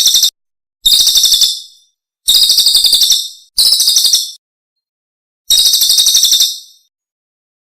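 Recorded songbird trill of the kind used as masteran, a training recording for caged songbirds. Short, high-pitched trills of rapid pulses come about five times, with dead silence between them.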